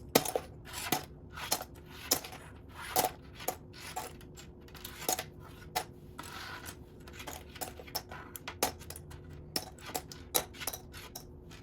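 Loose plastic Lego pieces clattering and clicking as a hand rummages through them in search of a missing piece: irregular sharp clicks, with a brief shuffling rustle about six seconds in.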